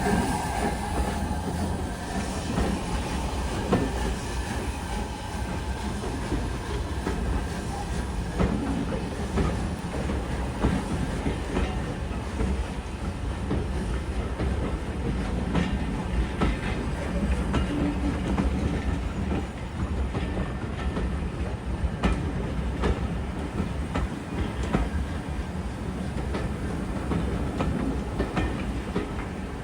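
Train running along the track: a steady rumble with the wheels clicking over rail joints.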